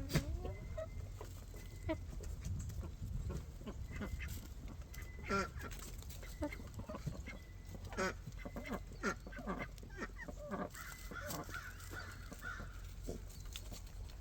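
A group of birds calling, many short calls following one another and overlapping throughout, over a steady low rumble.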